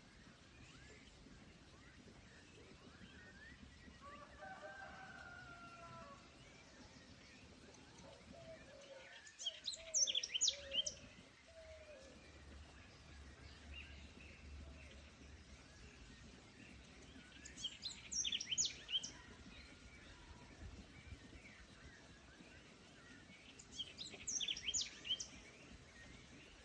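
Forest birds calling: a songbird sings a short, bright, high phrase three times, roughly every seven to eight seconds. In the first half a lower, drawn-out call sounds twice, over a faint steady forest background.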